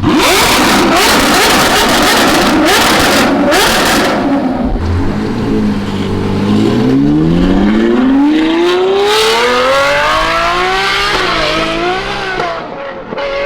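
Ferrari 812 Superfast's V12 through a straight-piped Ryft exhaust at high revs. It is loud and crackling for the first few seconds, then the high-pitched engine note rises steadily for about five seconds before wavering near the end.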